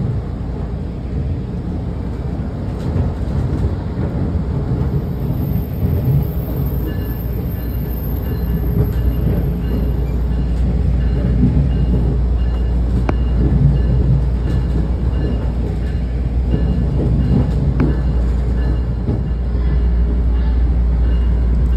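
Rumble of a MARC commuter train coach rolling along the rails, heard from inside the car, with a few sharp clicks from the wheels over rail joints and points; it grows somewhat louder toward the end.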